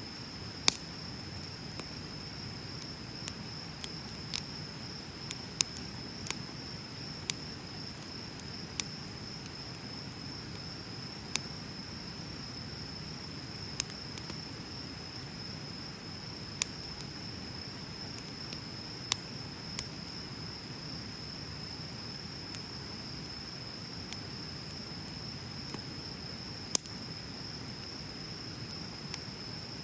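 Wood bonfire burning with irregular sharp pops and crackles a few seconds apart, over a steady high trill of crickets.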